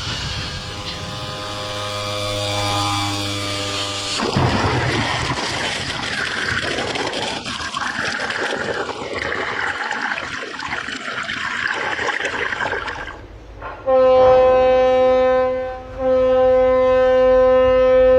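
A steady rushing noise with faint steady tones under it, then about fourteen seconds in a loud, held horn blast, broken briefly near sixteen seconds, with a second, higher note joining near the end.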